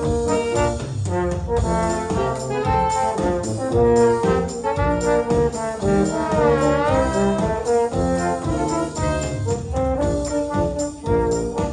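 Orchestra with prominent brass, trombones and trumpets, playing a hymn in sustained chords over a moving bass line. About halfway through, one voice swoops down in pitch and back up.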